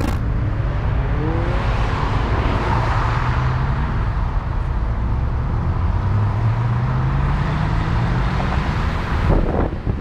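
Car driving at road speed, with steady engine and road noise. Near the end the engine note rises for a few seconds as the car accelerates.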